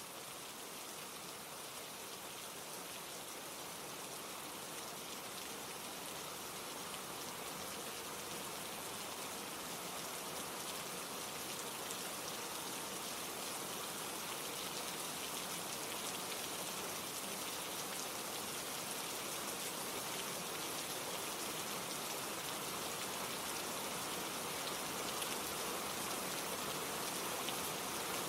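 Steady rain falling, an even hiss of many drops that grows gradually louder across the stretch.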